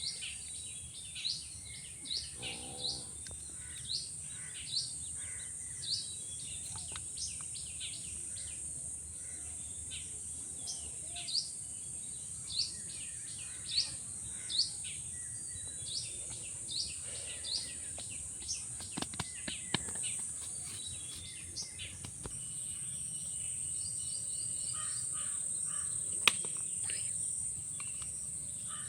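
A bird repeating short, sharp chirps about once or twice a second, over a steady high-pitched drone of insects. There is a single sharp click near the end.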